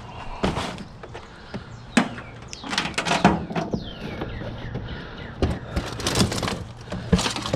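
Irregular metal knocks and clatters from scrap being worked apart by hand, with a cluster of sharper hits about three seconds in and again around six seconds, over a steady low hum.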